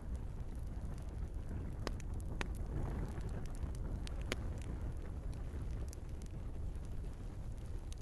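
Log fire in a fireplace crackling: a steady low rumble of flame with scattered sharp pops from the burning wood, the clearest about two and four seconds in.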